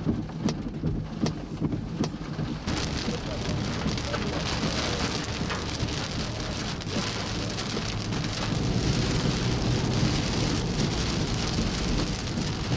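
Heavy rain beating on a car, heard from inside: separate drops and regular ticks at first, then about three seconds in the downpour suddenly turns much heavier into a dense, steady hiss that grows a little louder near the end. A low vehicle hum runs underneath.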